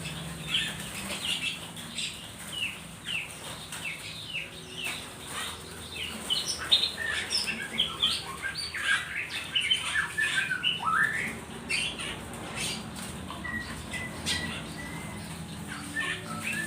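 Many small trapped songbirds chirping and squawking in rapid short, falling calls, busiest in the middle, with wings fluttering and clicks of handling as the birds are disturbed during packing.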